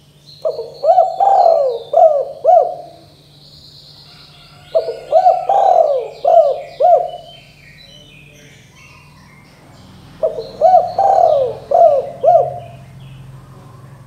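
Spotted dove (tekukur) cooing: three loud phrases of about five or six coos each, a few seconds apart. Other small birds chirp faintly in the background.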